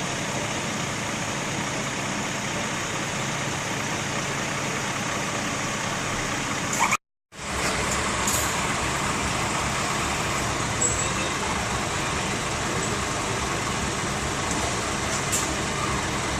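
Scania trucks on the move: steady engine and road noise. The sound cuts out completely for a moment about seven seconds in.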